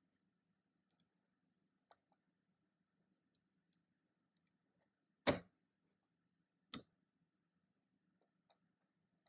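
Mostly quiet room with a faint low hum, a few light ticks and two sharp desk taps, the louder one about five seconds in and a lighter one a second and a half later, from work at a keyboard and tablet.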